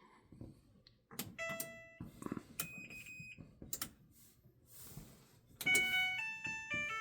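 Clothes dryer's electronic control panel beeping as its buttons are pressed, with a few clicks, then a short chime tune of stepped tones about two-thirds of the way in. The dryer answers the button presses but will not start its cycle.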